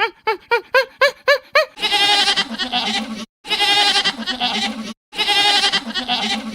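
Goat bleating: three long, quavering bleats with sharp silent breaks between them, preceded by a quick run of about eight short, high calls in the first second and a half.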